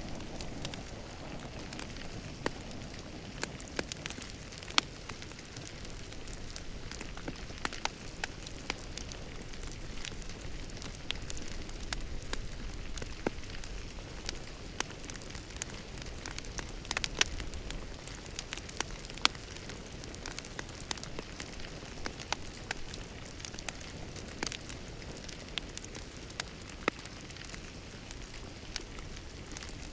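Fire crackling in a fireplace: a steady soft hiss with frequent irregular sharp pops.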